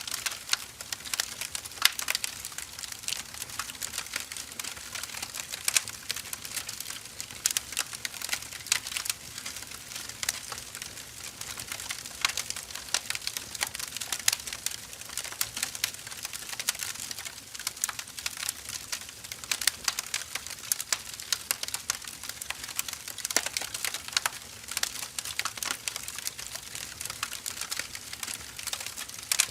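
Wood fire burning: a dense, irregular run of crackles and sharp pops.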